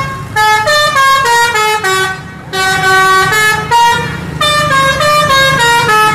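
A musical multi-note bus horn playing a quick melody: runs of short, clear notes that step mostly downward, broken by two short pauses.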